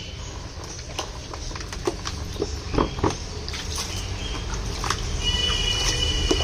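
Pet parakeet being bathed: scattered light taps and small splashes over a low steady hum, then one held high-pitched call lasting about a second near the end.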